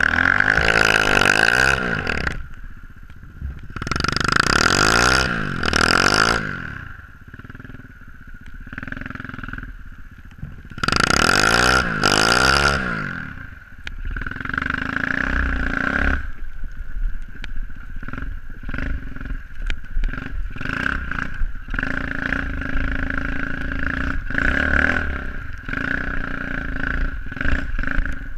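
SSR 125cc pit bike's single-cylinder four-stroke engine revving up and down three times, then running at lower, uneven speed with a rough, clattery note for the second half.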